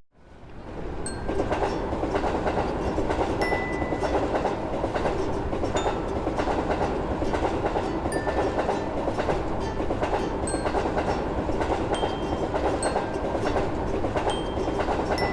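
Train running past with the steady rumble and clatter of wheels on rails. It swells up over the first second or so, then holds steady, with faint brief high tones here and there.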